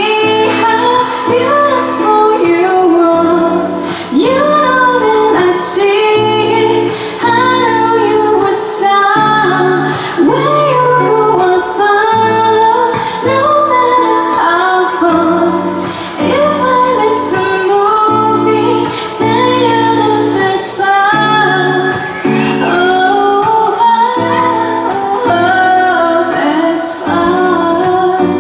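A woman singing a slow song with sustained chordal instrumental backing.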